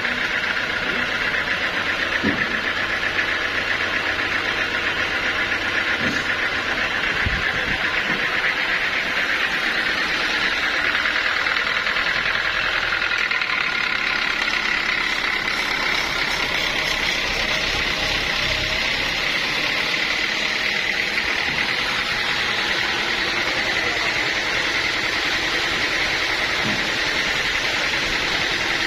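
Sawmill machinery running steadily, a continuous mechanical drone with a strong high hiss and no pauses.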